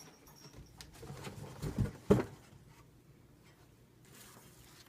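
Cardboard box and paper being handled: faint rustling, with a dull knock and a sharper one about two seconds in.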